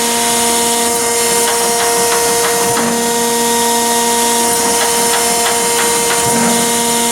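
Chevalier 1628AD surface grinder running, with a steady multi-tone whine. A lower hum cuts in and out about every three seconds, with scattered light clicks.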